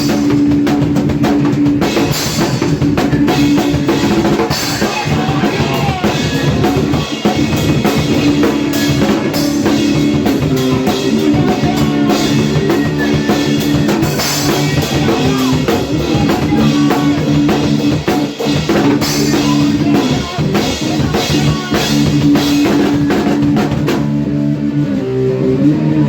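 Hardcore punk band playing: electric guitar and bass chords over busy drum-kit beats. The drums drop out about two seconds before the end, leaving the guitar ringing on.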